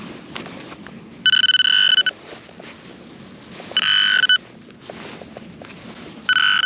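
Handheld metal-detecting pinpointer sounding its alert three times, a high buzzing tone each under a second long, as it is passed over the buried target in the dug soil. Faint scraping and rustling of soil lies between the tones.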